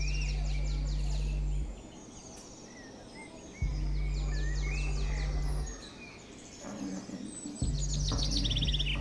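Birds chirping and trilling throughout, under a deep held bass note of background music that swells in three times, each lasting about two seconds.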